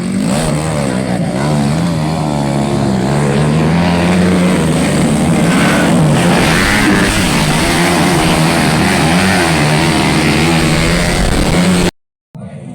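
Dirt-bike engines at racing revs, the pitch rising and falling repeatedly as the motocross bikes go through the gears. The sound cuts off suddenly near the end.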